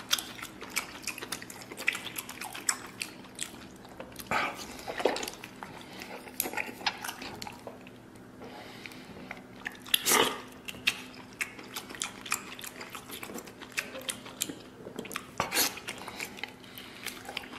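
A man biting and chewing chunks of cooked pork intestine, a string of mouth smacks and clicks with louder ones about four, ten and fifteen seconds in.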